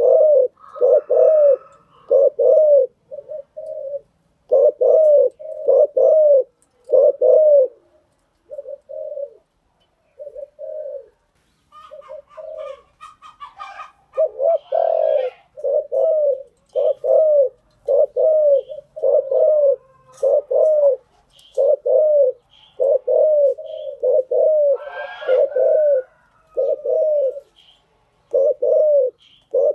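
Spotted dove cooing over and over: phrases of short, low, arching coos, with a couple of brief higher chirps from another bird a little before the middle and again later.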